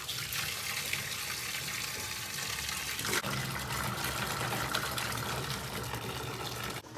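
Hot water tap running into a sink, filling it for a soak. The flow stops abruptly just before the end.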